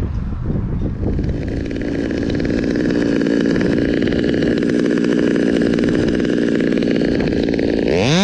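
Stihl 200T two-stroke top-handle chainsaw running, uneven at first, then settling into a steady idle. Near the end it is throttled up sharply to a high, wavering rev.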